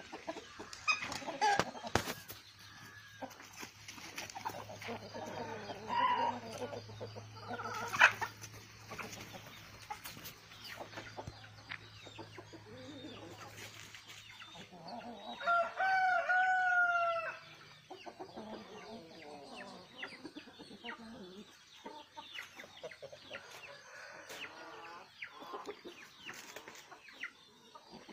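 Aseel chickens clucking and calling on and off, with a rooster crowing once, loudly for about two seconds, a little past the middle.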